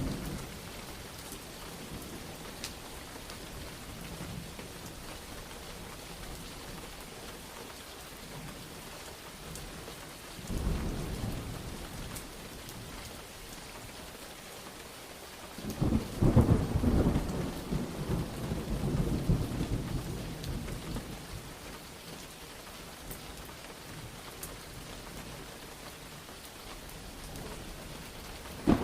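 Steady rain falling through a thunderstorm, with a short roll of thunder about ten seconds in and a louder, longer rumble of thunder around the middle.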